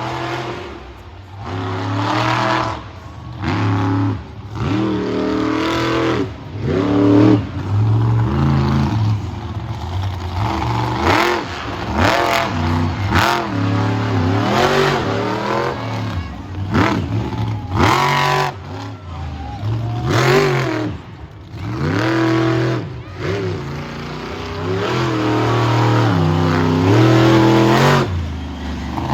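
Monster truck engine revving hard over and over, its pitch sweeping up and falling back with each burst of throttle.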